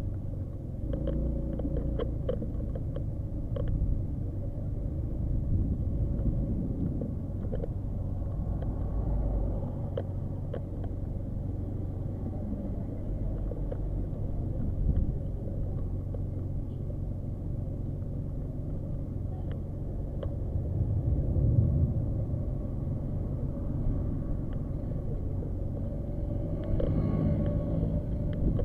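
Small motorcycle engine running while riding, a steady low rumble that swells louder a few times.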